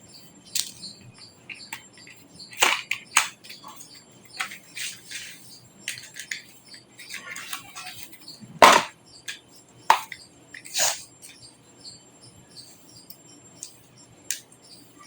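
Irregular clicks, taps and knocks of computer parts and a metal case being handled during desktop PC assembly, with a few sharper knocks standing out.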